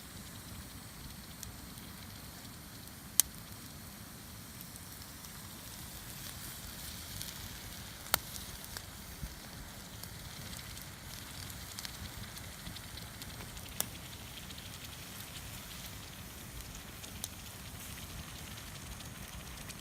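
Wood campfire burning: a steady hiss with scattered crackles and a few sharp pops, the three loudest several seconds apart.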